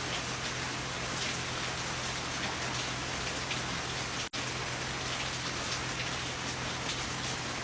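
Steady rain falling, with scattered drops ticking on a nearby surface, over a low steady hum. The sound cuts out for a split second about four seconds in.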